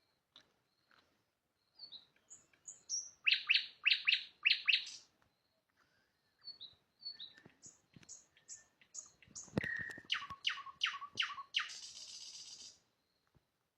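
Nightingale singing: soft high whistled notes, then two runs of loud, quickly repeated notes, the first about three seconds in and the second later on, closing with a harsh buzzy trill near the end.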